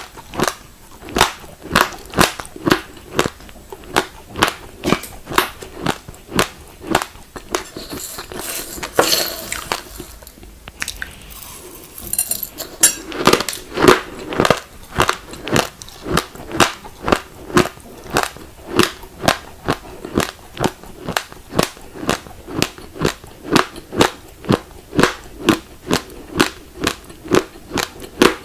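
Raw glutinous rice grains being crunched between the teeth, about two sharp crunches a second. Near the middle the chewing stops for a few seconds and a brief rustling sound comes in before the crunching starts again.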